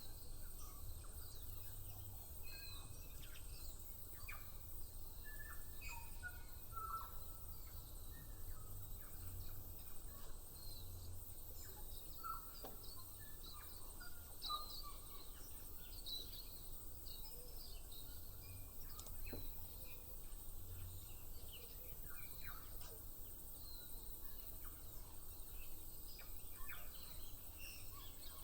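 Many birds chirping and whistling in a loose morning chorus, short scattered notes from several birds throughout, over a low background rumble.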